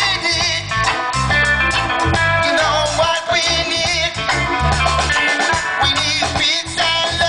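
A live reggae band playing, with a deep, blocky bass line under guitar and drums.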